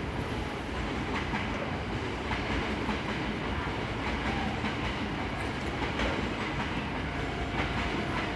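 Hankyu electric train running past at low speed: a steady rumble with irregular clacks of the wheels over rail joints.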